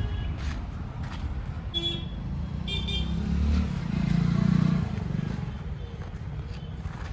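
Heavy machinery engines running steadily, a JCB 3DX backhoe loader and tractors, swelling louder about four seconds in. Two short high-pitched toots sound about two and three seconds in.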